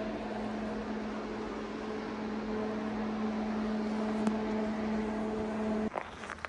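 A steady machine hum with a hiss underneath, holding one pitch, that cuts off abruptly about six seconds in, followed by a couple of light clicks.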